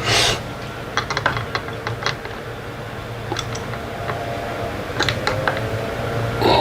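Scattered light clicks and taps of small door-closer hardware being handled and fitted, with a short rustle at the start, over a steady low hum.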